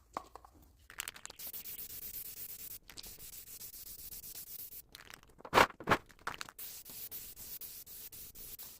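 Aerosol can of primer spraying onto a steel tractor rim: a long hiss that breaks off briefly, then two sharp knocks a little before halfway, then further spraying in shorter hisses.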